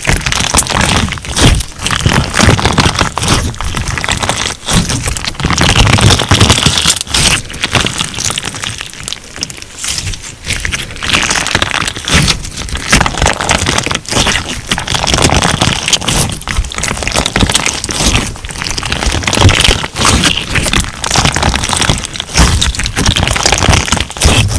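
Crunch slime being squeezed and worked by hand, giving a dense, continuous crackling and popping. It eases off for a few seconds about ten seconds in.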